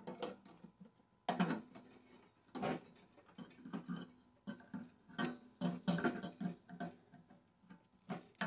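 Irregular clicks, taps and knocks of small metal parts being handled and pried apart while a microwave is dismantled for scrap copper.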